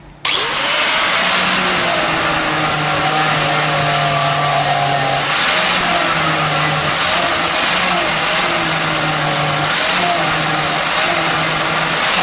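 An electric grinder switches on with a rising whine, then runs loud and steady while grinding the iron axe. Its pitch dips briefly several times as it bears on the metal.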